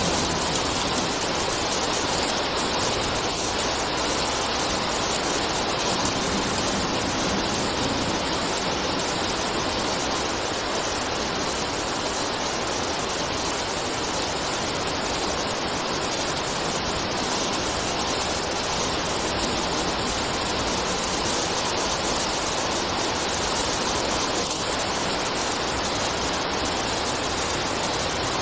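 Rain falling in a steady, even hiss that does not change.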